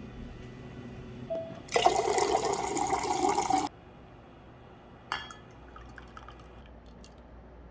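Liquid poured into a vessel for about two seconds, stopping abruptly, followed by a short clink about five seconds in.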